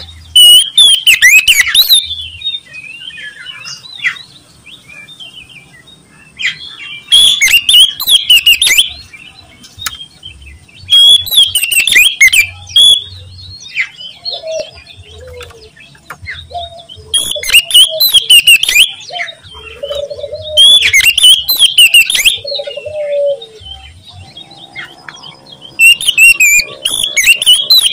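Oriental magpie-robin (kacer) singing loudly in bursts of fast, twisting high notes about two seconds long, several seconds apart. Fainter lower-pitched calls come in between bursts in the middle.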